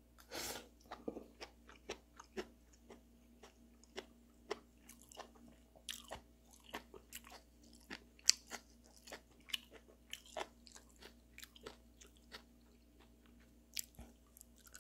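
A person chewing a mouthful of steamed beef tripe close to the microphone: a string of faint, irregular mouth clicks, one or two a second.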